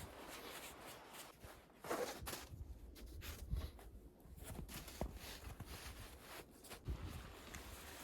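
Footsteps crunching through deep snow, an uneven series of soft crunches and low thuds.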